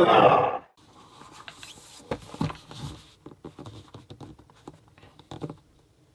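A loud burst of noise in the first second, then the rustling, tapping and clicking of a product box and its packaging being handled and opened, dying away near the end.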